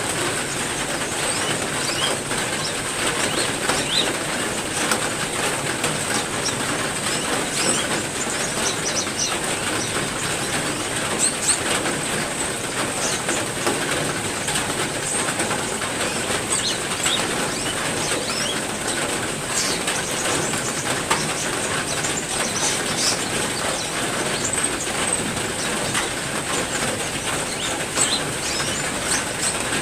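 Steady heavy rain falling, with small aviary birds chirping in short, scattered calls over it and a steady high-pitched tone throughout.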